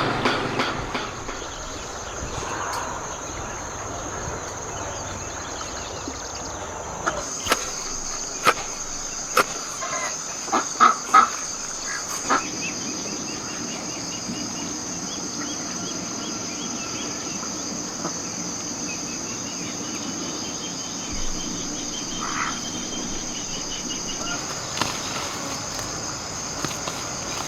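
Insects trilling steadily in a high-pitched drone, louder from about seven seconds in, with a handful of sharp knocks between about seven and twelve seconds in and faint rapid chirping twice later on.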